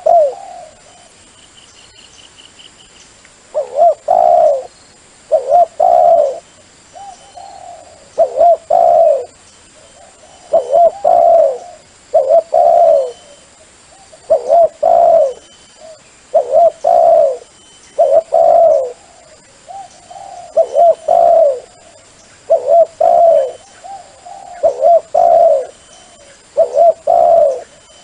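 Dove cooing: a phrase of several low coos repeated about every two seconds, a lure call used to draw wild doves in for decoy trapping.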